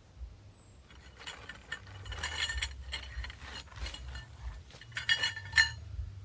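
Metal or glass objects clinking and rattling against each other as they are handled, in two bursts, the second shorter and louder.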